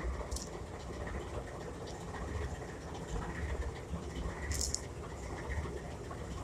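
Lionel O gauge model CSX diesel train giving a low, uneven rumble, with a couple of faint sharp clicks.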